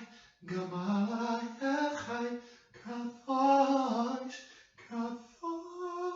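A single voice singing or humming wordless notes without accompaniment, in phrases that slide between pitches, ending in one long held note near the end.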